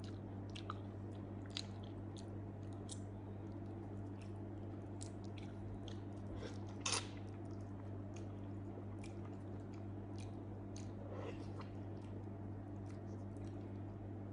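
Close-up mouth sounds of someone eating soft grilled eggplant: scattered wet clicks and smacks of chewing, with one louder smack about seven seconds in, over a steady low hum.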